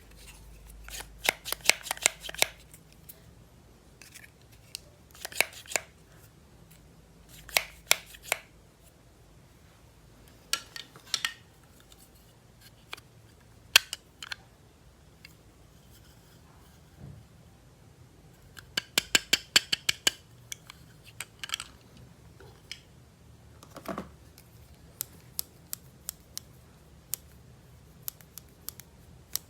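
Toys and their packaging being unboxed and handled: clusters of quick, sharp clicks and snaps from plastic pieces, with short pauses between the groups.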